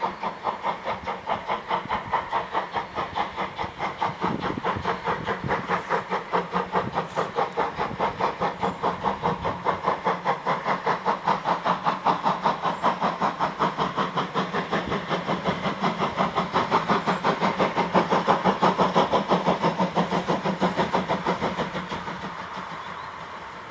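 Steam locomotive exhaust chuffing in a fast, steady rhythm of about five beats a second, growing louder to a peak late on and then fading as it passes.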